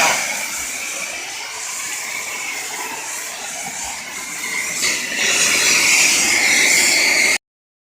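Gas torch flame burning with a steady hiss, getting louder about five seconds in, then cutting off suddenly near the end.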